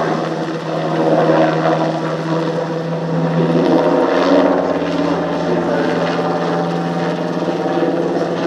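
NH90 military helicopter flying a display: a steady rotor and turbine drone whose pitch drops slightly about three and a half seconds in.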